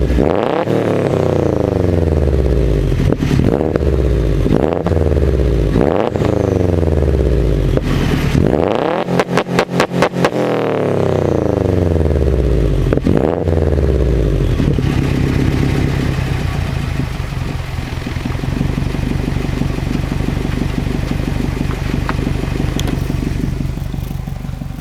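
2005 Subaru WRX STi's turbocharged 2.5-litre flat-four through a catless Invidia bellmouth downpipe and G200 cat-back exhaust. It is revved in quick blips, each falling slowly back, with a stretch of rapid stuttering about nine seconds in, typical of launch control holding the revs. After about fifteen seconds it settles to a steady idle.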